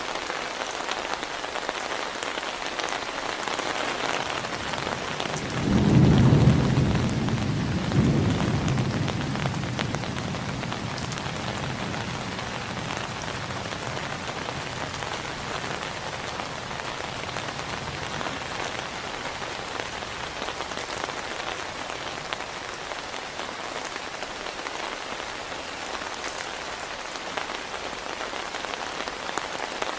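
Steady heavy rain, with a loud thunderclap about six seconds in that rumbles on, cracks again about two seconds later, and fades out over the next few seconds.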